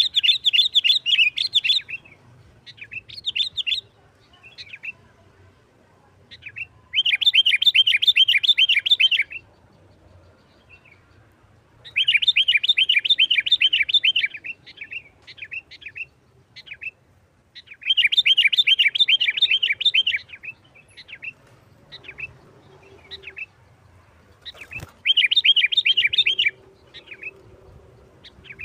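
Sooty-headed bulbul (kutilang) singing in the fast 'nggaruda' style: five bursts of rapid, chattering repeated notes, each about two seconds long and several seconds apart, with scattered single notes in between.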